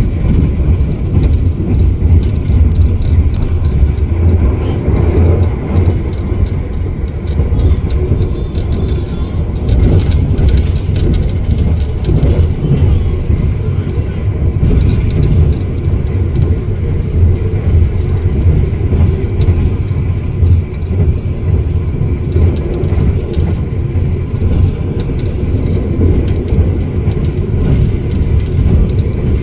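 Argo Bromo Anggrek express train running at speed, heard from on board: a steady, loud low rumble of wheels on track with faint ticks and rattles over it.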